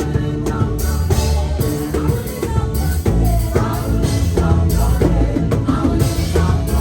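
Live worship band music, the drum kit to the fore over a heavy bass line, with some singing.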